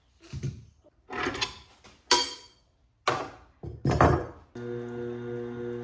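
A few sharp knocks and clatters of tool handling, the loudest about two seconds in. Then, about four and a half seconds in, an electric motor switches on and hums steadily: the Tormek T8 water-cooled sharpening grinder starting up.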